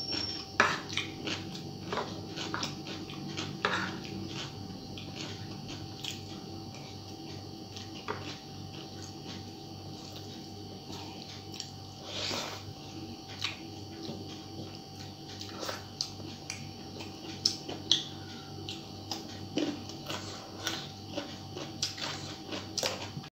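Close-up eating sounds of a person eating rice and curry by hand: wet chewing with irregular lip-smacking clicks, and fingers working rice on a steel plate, over a steady faint hum.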